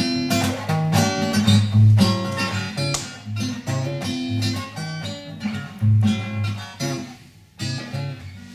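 Acoustic guitar playing the closing bars of a song, picked notes and strummed chords, dying away in the last second or so.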